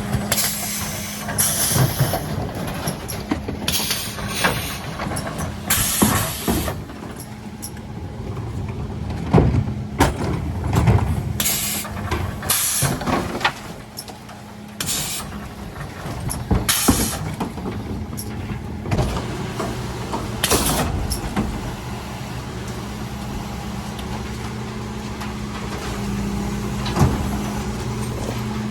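Mercedes-Benz Econic refuse truck running with a steady engine hum, broken by many short air-brake hisses and knocks.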